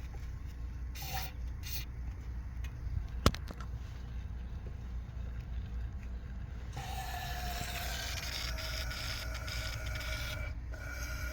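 Aerosol can of foaming carburetor cleaner hissing through a nozzle tube into an engine's spark plug hole to clean carbon from the combustion chamber: two short spurts, a sharp click, then a long continuous spray with a faint whistle near the end, over a steady low hum.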